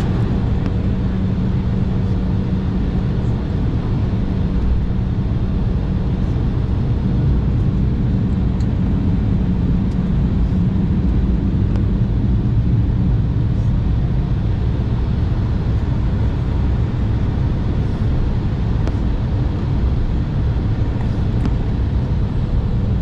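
Cabin noise inside an Embraer E175: a steady, loud rumble of its engines and airflow with a low hum, holding level rather than spooling up.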